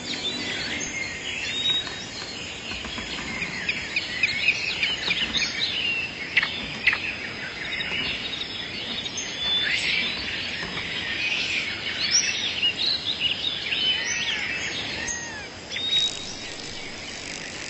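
A chorus of many birds calling: dense, overlapping short chirps and whistles throughout.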